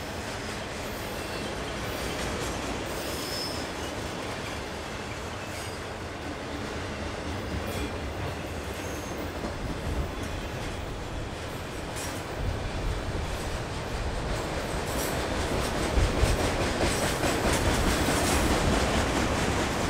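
Autorack freight cars rolling past on the rails: a steady rumble of steel wheels on track with a few sharp knocks, growing louder in the second half.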